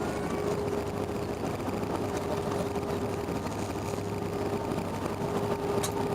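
Steady cabin noise inside an Airbus A321-100 airliner: engine and airflow noise with a constant hum tone.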